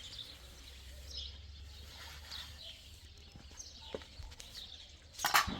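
Quiet outdoor ambience: a low steady rumble with scattered faint high chirps, typical of distant birds or small animals. A louder call or voice starts just before the end.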